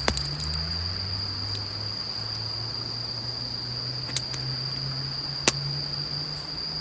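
Crickets trilling in a steady high tone, over a low steady hum, with three sharp clicks: one at the very start, one about four seconds in and one about five and a half seconds in.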